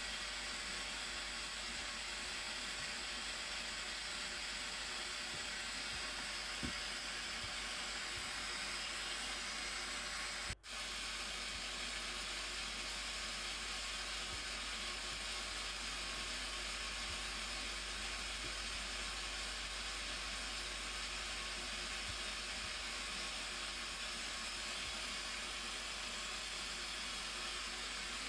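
Steady rushing roar of a waterfall, an even wash of noise with no pitch, broken once by a brief gap about ten seconds in.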